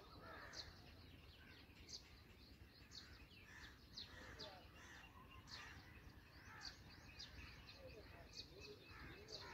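Faint, short high chirps from birds, about one to two a second, over a steady low background rumble.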